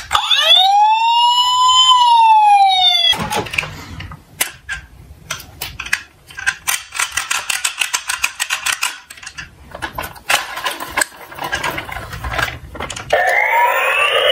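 A siren wail rises and falls once over about three seconds, then comes about ten seconds of rapid clicking and rattling from small toy cars rolling down a slope, and a second siren starts rising near the end.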